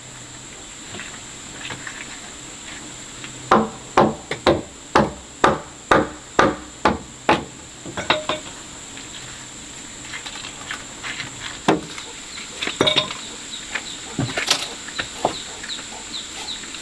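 Blows striking wood: a steady run of about nine strikes at about two a second, then a few scattered single knocks. A faint steady high-pitched whine runs underneath.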